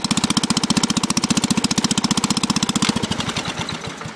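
Unmuffled engine of a 1960s Sears Suburban 12 garden tractor running with a rapid, open popping exhaust, then slowing from about three seconds in and stalling as it is choked off, because the key switch doesn't shut it down.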